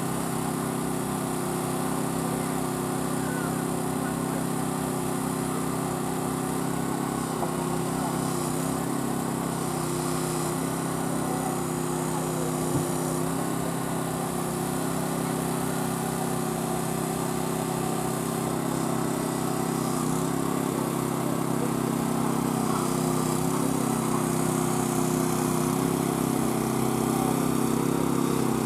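Small gasoline engine running steadily, the power unit driving the hydraulic rescue tools used to cut the car apart. It gets slightly louder over the last few seconds, and there is one sharp click about halfway through.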